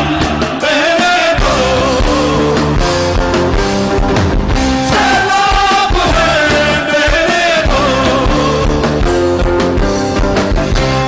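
Indian fusion-rock band playing live: drums and bass under a sliding melody line that bends up and down, dropping out briefly and returning about midway.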